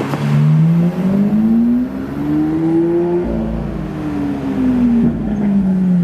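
Car engine accelerating hard, its pitch climbing steadily for about three seconds, then falling away as the car eases off, with a low road rumble underneath.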